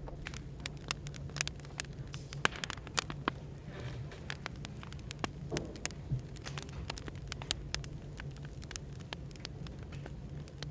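Wood fire crackling, with frequent irregular pops and snaps, over a steady low hum of cafe background noise.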